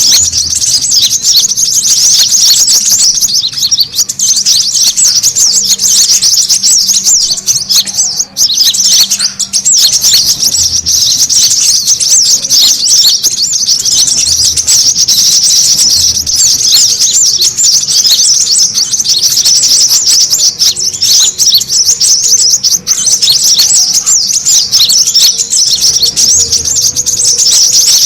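Brown-throated sunbirds (kolibri kelapa) twittering noisily: a dense, unbroken stream of rapid high chirps. This is a 'ribut' lure call used to draw in wild birds and set caged birds singing.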